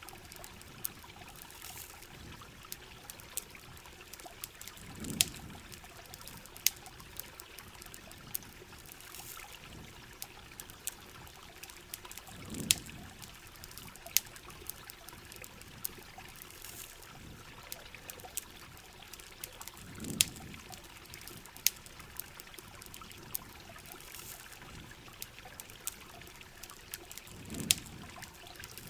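Heavy rain ambience with water trickling and pouring, and a campfire crackling in frequent sharp pops. A low swell comes about every seven and a half seconds.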